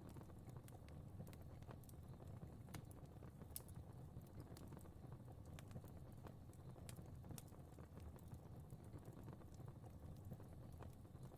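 Faint crackling fire: a low steady rumble of burning with scattered, irregular sharp crackles and pops.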